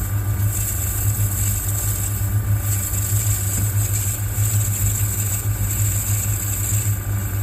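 Metal lathe running steadily with a deep motor hum, a parting/grooving blade cutting a groove in brass bar, the high cutting hiss swelling and easing as the tool is fed.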